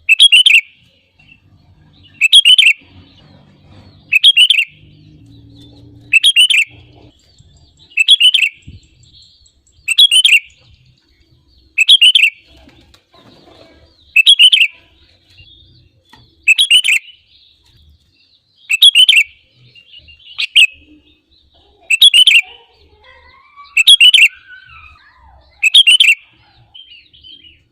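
Sooty-headed bulbul (kutilang) singing: one short loud phrase repeated at an even pace, about every two seconds.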